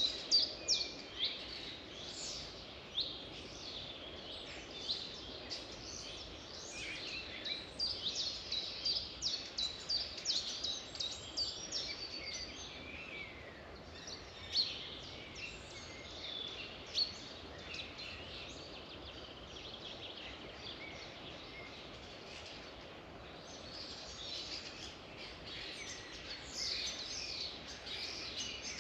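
Several songbirds chirping and singing in quick, high trills, busiest near the start and again near the end, over a steady faint hiss of outdoor background noise.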